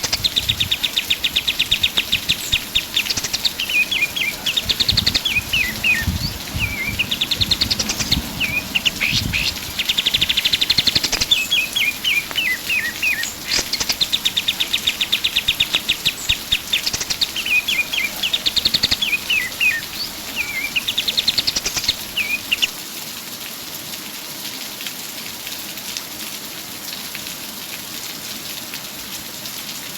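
Kapas tembak songbird singing energetically: repeated phrases of fast, high trills, quick runs of falling notes and rising sweeps, stopping about three-quarters of the way through. A steady rain-like hiss runs beneath the song and is all that is left after it stops, with a few low thumps in the first third.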